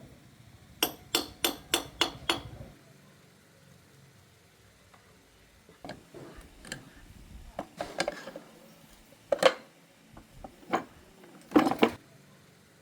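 Metal tools on engine parts: a run of six quick taps, then scattered clinks and knocks of metal on metal.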